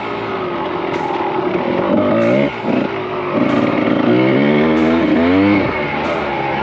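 Kawasaki KDX 220R two-stroke single-cylinder dirt bike engine revving up and down repeatedly while being ridden, mixed with background music that has a regular beat.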